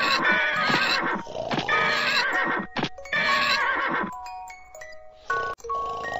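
An animal call with a wavering pitch, three times in the first four seconds, over music with held chime-like tones that continue alone near the end.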